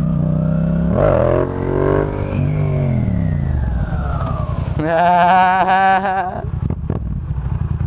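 Yamaha FZ-07's 689 cc crossplane parallel-twin engine, breathing through a Yoshimura exhaust, revved hard about a second in. The pitch climbs and then falls away over the next couple of seconds, and the engine then runs on steadily. A short wavering pitched sound, like a voice or call, is heard about five seconds in.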